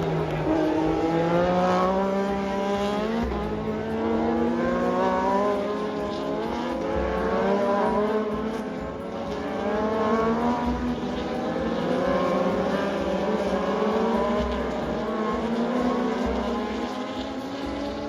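Several racing motorcycle engines running on track together, their pitches rising and falling as the bikes accelerate, shift gears and pass one after another.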